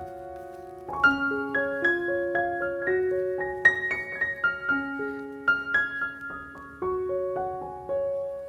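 Background piano music: gentle melody of single struck notes over sustained chords.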